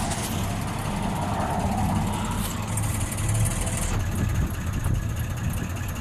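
Vintage car's engine idling steadily while the car stands parked, its oil gauge showing pressure.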